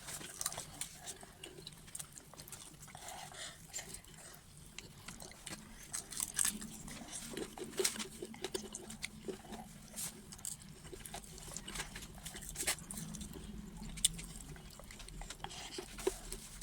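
Close-up eating sounds: chewing and wet mouth smacks of someone eating rice and vegetable stew, with many small, irregular clicks.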